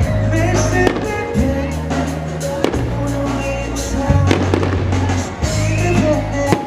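Fireworks going off, a sharp bang every second or two, over loud music with a heavy bass line and a melody.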